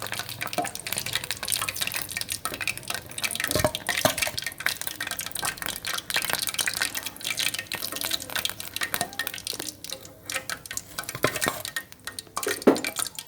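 Chicken rolls deep-frying in oil on a low flame: a steady, dense crackle and sizzle, with a knock about three and a half seconds in and another near the end.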